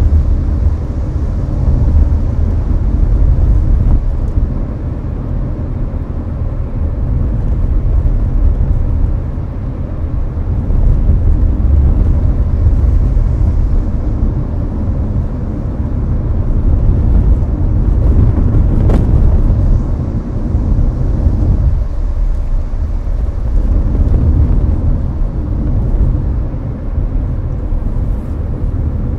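Cabin noise of a Hyundai Avante cruising on the highway: a steady low road and tyre rumble, with the air-conditioning fan blowing.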